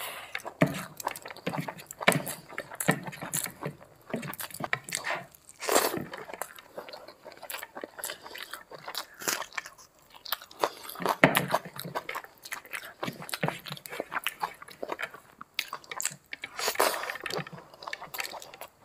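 Close-miked chewing of handfuls of rice and curry eaten by hand: irregular wet mouth clicks and smacks.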